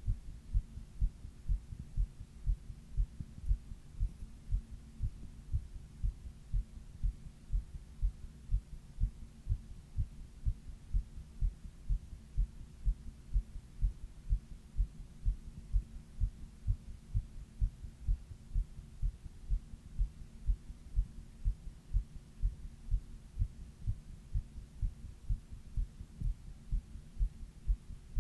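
A person's heartbeat: a steady, regular rhythm of low lub-dub thumps over a faint steady hum, recorded during a 102 °F fever.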